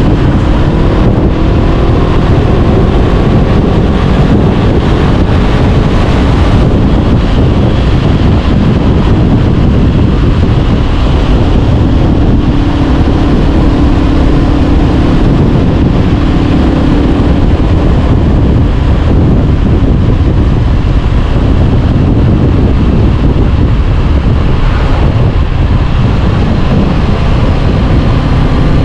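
Honda CB500X parallel-twin engine running through an Arrow Pro-Race exhaust while riding, its pitch shifting with the throttle and holding steady for a few seconds in the middle. Wind noise on the microphone is heard throughout.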